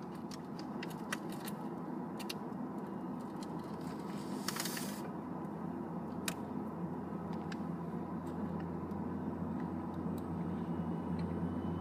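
Tri-Rail commuter train rolling past, with the steady low drone of its diesel locomotive growing louder near the end as the locomotive draws level. Scattered sharp clicks and a short hiss about halfway through.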